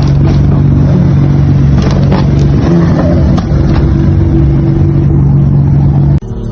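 Sports car engine and exhaust running loud at steady revs, with a few sharp cracks in the middle; it cuts off suddenly near the end.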